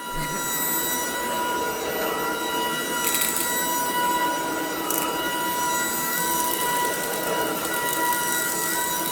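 Shark DuoClean cordless stick vacuum running steadily, a high motor whine over a noisy hiss, with faint crackles as debris is picked up about three and five seconds in.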